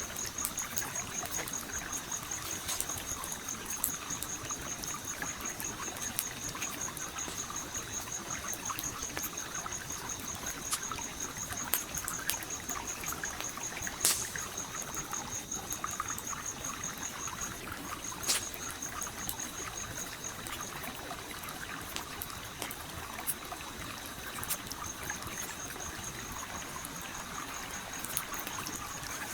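A stream flowing steadily, mixed with a crackling campfire whose scattered pops are loudest about halfway through. A high, fast insect chirping runs alongside, stopping twice for a few seconds.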